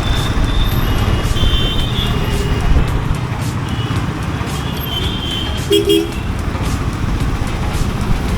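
A Royal Enfield Bullet 350's single-cylinder engine running under way in city traffic, with a steady low rumble of engine and road noise, and short horn beeps from other vehicles, one of them near 6 seconds in.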